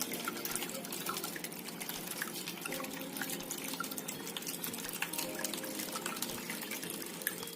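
Water trickling and dripping in a small tabletop waterfall fountain, with many quick little splashes.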